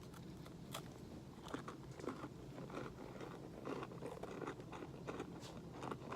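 A person biting into and chewing a crunchy Nature Valley Oats 'n Honey granola bar: a string of faint, irregular crunches and crackles as the bar breaks apart.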